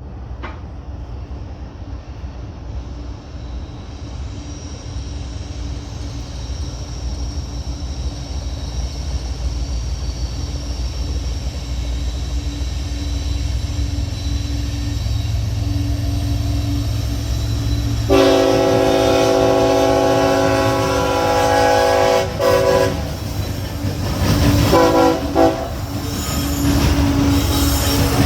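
Diesel freight locomotive approaching, its engine rumble growing louder, then sounding its multi-chime air horn about two-thirds of the way in: several blasts broken by short gaps, the horn the loudest sound.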